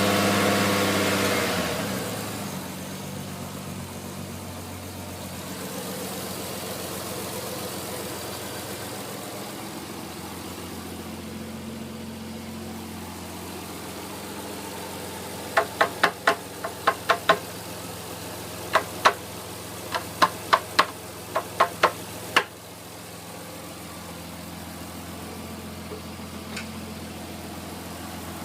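Non-turbo Nissan Skyline R33's straight-six engine settling from a rev to a steady idle in the first two seconds, then idling. Partway through, a run of about fifteen sharp clicks or knocks comes in quick groups over some seven seconds, then stops.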